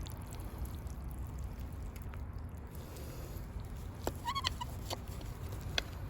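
A short pitched animal call about four seconds in, over a low steady outdoor rumble, with a sharp click near the end.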